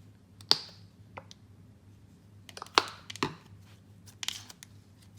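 Slime being handled and pressed, giving a few scattered sharp clicks and pops at irregular intervals.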